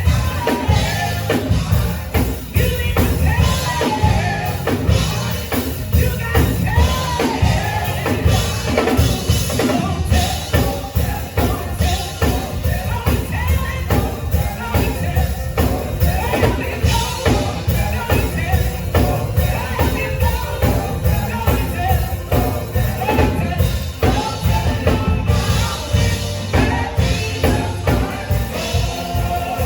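Live band music with a drum kit keeping a steady beat under a bending lead melody.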